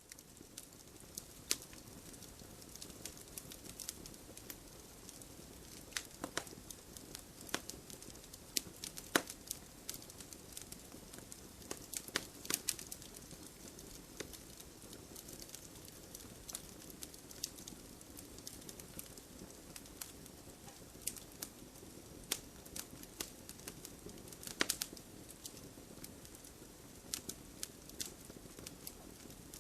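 Wood fire crackling, with irregular sharp pops and snaps from the burning logs over a soft, steady low rush of flame.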